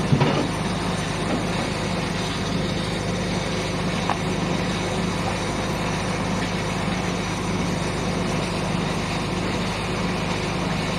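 Heavy machine engine running steadily at one constant speed, with a brief knock right at the start.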